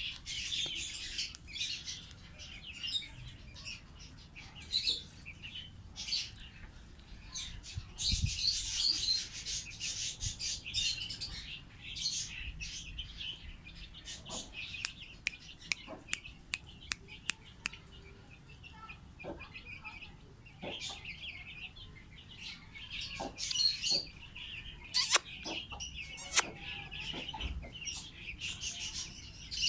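Pet lovebirds chirping and chattering in dense high-pitched bursts, busiest near the start and again about eight seconds in, with scattered short sharp clicks throughout.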